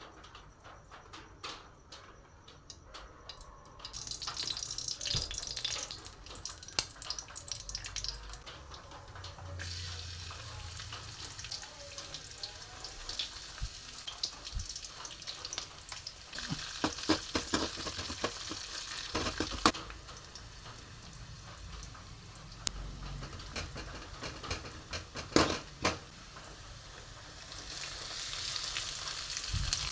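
Tadka in an aluminium kadai: hot oil sizzling as garlic, whole spices and dried red chillies fry in it, with scattered clicks of ingredients dropping and a spoon stirring. The sizzle starts about four seconds in and grows louder near the end as chopped onions go in.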